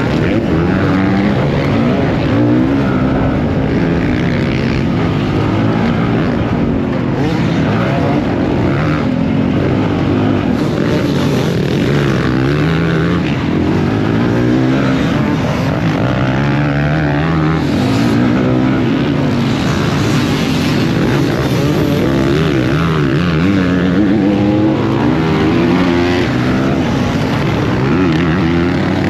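Motocross bike engine running hard under racing load, revving up and down over and over as the rider accelerates, shifts and backs off through the track's corners and jumps.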